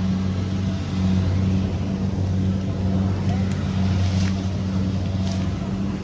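Kubota DC70 Pro combine harvester's diesel engine running steadily at working speed, a constant low hum, with a couple of short clicks about four and five seconds in.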